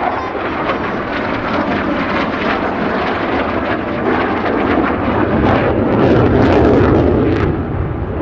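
Lockheed Martin F-35A Lightning II's single F135 jet engine, loud and crackling as the jet passes, swelling to its loudest about six to seven seconds in, then easing off.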